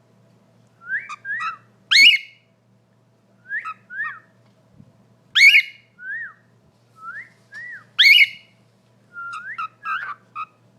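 Pet bird whistling: short rising-and-falling whistles in pairs, each group capped by a loud, sharp upward-sweeping call, repeating about every three seconds.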